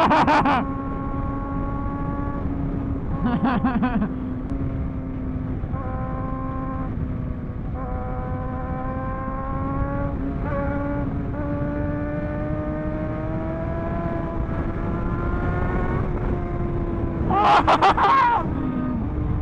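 Superbike engine running at a steady highway cruise under constant wind and road noise, its pitch drifting slightly up and down. Three short, loud bursts of revving from bikes close by: one at the start, one about three and a half seconds in, and the loudest near the end.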